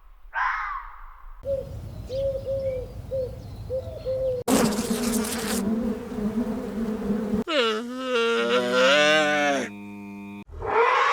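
Wild animal calls spliced together in quick cuts: a big-cat roar about half a second in and again near the end, with short repeated calls and a drawn-out, wavering pitched call between them.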